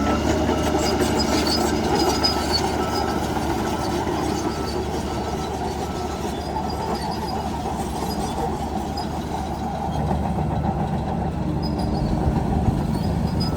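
Bulldozer's diesel engine running steadily with a dense rattling clatter from the working machine. A faint reversing beep repeats at an even pace over the first few seconds, then fades out.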